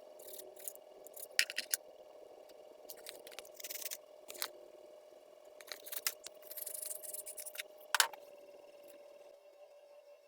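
Intermittent scraping and rustling with a few sharp clicks, the loudest about one and a half seconds in and near eight seconds, over a faint steady hum.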